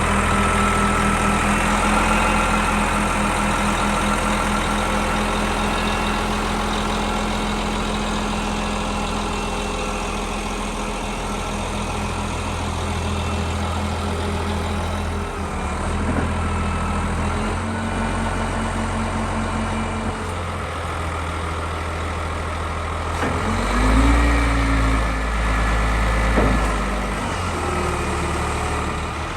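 Cummins ISM inline-six diesel engine of a 2003 Volvo WX roll-off truck running steadily at idle. Near the end it grows louder and its pitch rises and falls again.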